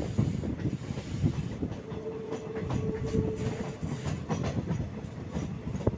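Passenger train coaches running on the rails at speed on a curve: a steady rumble with irregular clicks and clatter from the wheels. A faint steady tone sounds for about a second and a half near the middle.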